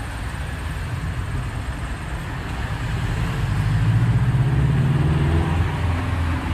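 An engine running, getting louder and rising a little in pitch from about two and a half seconds in.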